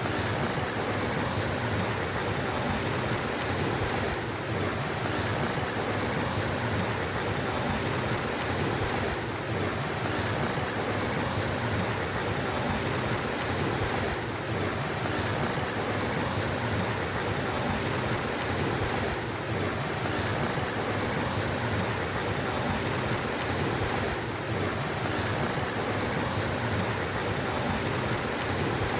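Steady rushing of flowing water, a mountain stream or small cascade, with a slight brief dip in level about every five seconds.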